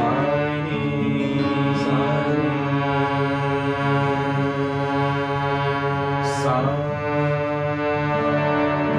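Harmonium playing held, droning chords, with short sliding notes rising in near the start, around two seconds in and again past six seconds.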